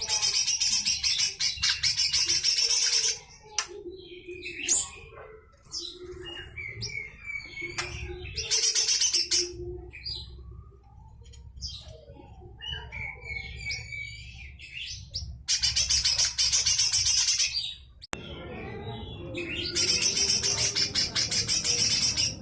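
Cucak hijau mini (lesser green leafbird) giving harsh, rapid rattling bursts, the coarse 'besetan kasar' call, four times, each lasting two to three seconds. Softer chirps and whistles come between the bursts.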